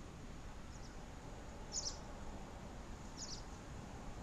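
Outdoor ambience: a steady low background noise with a small bird chirping briefly about three times, short high-pitched chirps roughly a second and a half apart.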